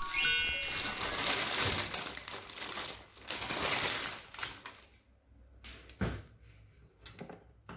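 The last descending notes of a chiming jingle, then a crinkling rustle, like something being crumpled or handled, for about four seconds. A few scattered short clicks follow.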